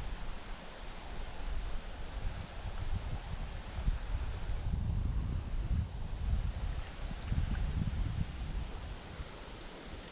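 Insects trilling steadily at a high pitch, stopping for about a second roughly five seconds in, over an uneven low rumble.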